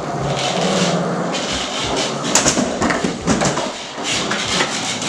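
Skateboard wheels rolling on a hard floor, followed by several sharp clacks of the board's deck and tail hitting the floor during a trick attempt.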